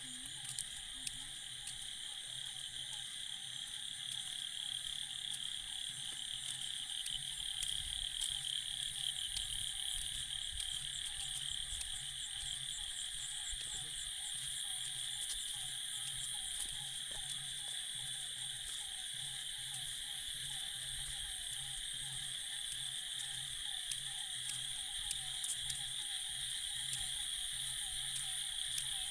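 Chorus of many frogs calling continuously in rapid repeated pulses, with a steady high-pitched trilling above it.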